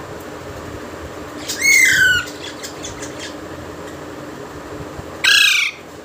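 Pet parrot squawking twice. The first loud call, about a second and a half in, falls in pitch and is followed by a few faint short calls; a second loud, shorter squawk comes near the end. A steady low hum runs underneath.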